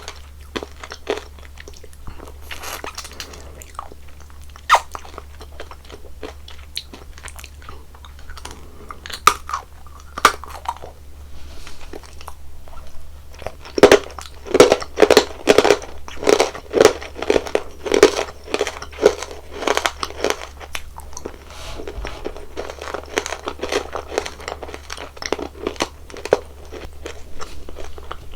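Close-miked eating of sugary jelly sweets: crunchy bites and chewing, with scattered sharp crackles and, in the middle, a steady run of chewing strokes about twice a second. A faint low hum runs underneath.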